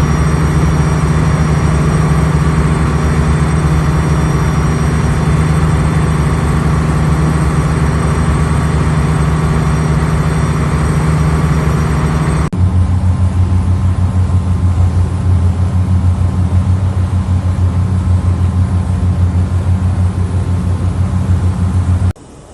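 Heavy ship machinery running steadily: a loud low drone with a steady hum and faint whining tones above it. About halfway through it cuts abruptly to a deeper drone with a fast throb.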